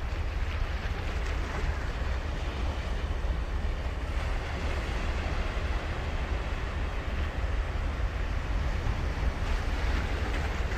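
Ocean surf washing onto the beach, a steady rush of breaking waves, with a low wind rumble on the microphone.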